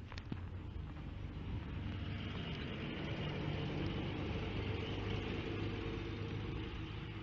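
A 1990s transit bus engine running steadily, with a low even drone and a slight swell in the middle. A couple of sharp clicks come right at the start.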